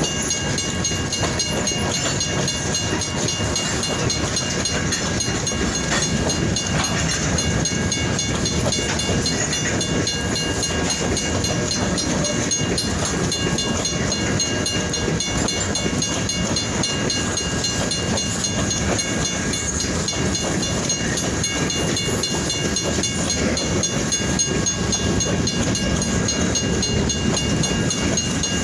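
Freight train rolling past with a steady rumble and clatter of wheels on rail, holding level throughout.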